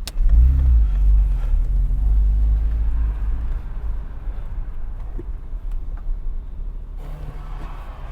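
A car engine: a loud low rumble starting suddenly as a car accelerates, then settling to a quieter steady rumble.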